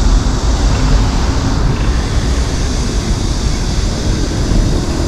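Steady low rumble and noise of a train running.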